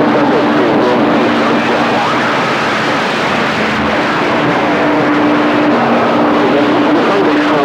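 CB radio receiving long-distance skip: a steady hiss of static with two low steady whistles that come and go, and faint, garbled, overlapping transmissions under the noise.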